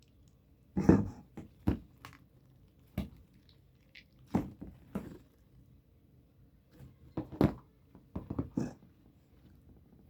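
Slime being stretched and squished by hand: a series of short, separate sounds at irregular intervals, the loudest about a second in.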